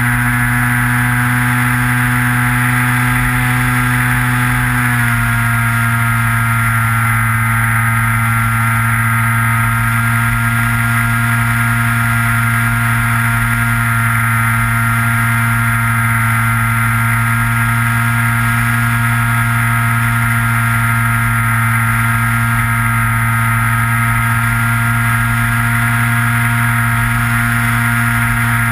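Onboard sound of a Skywalker RC plane's electric motor and propeller in flight: a steady, loud drone whose pitch steps slightly lower about five seconds in, then holds, with wind rumbling on the microphone.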